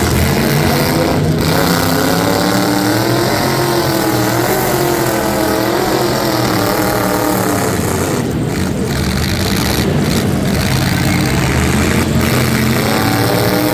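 Race trucks' engines running on track, the pitch rising and falling as they accelerate and lift.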